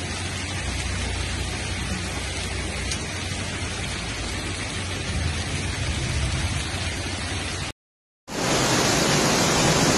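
Hailstorm downpour on a flooded street: a steady, even hiss of rain and running water. It cuts off abruptly just before eight seconds in, and a louder storm hiss follows.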